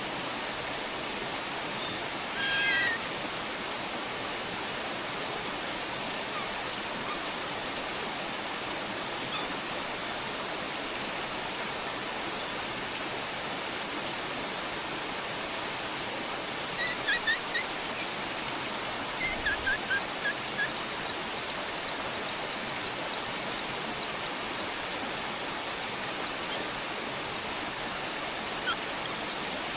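Short bird chirps over a steady rushing noise. A brief call comes about three seconds in, and a cluster of chirps and thin, very high peeps comes about two-thirds of the way through.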